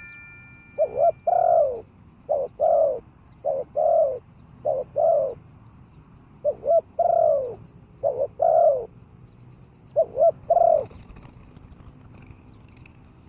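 Spotted dove cooing: a run of about seven short, rolling coo phrases, one every second or so, ending about eleven seconds in.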